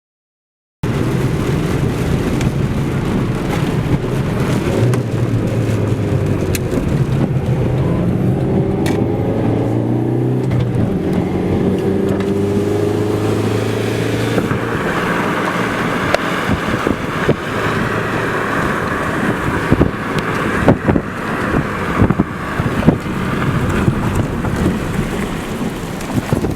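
Vehicle engine running under a low rumble, its pitch rising and falling in the first half. From about halfway a rain hiss builds, with scattered sharp knocks in the last third.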